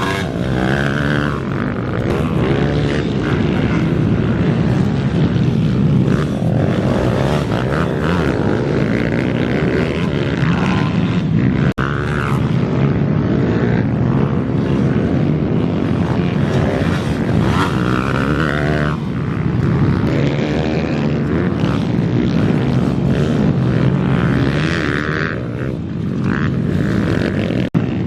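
Small four-stroke pit bike engines racing, repeatedly revving up and dropping back in pitch as the bikes accelerate and shift.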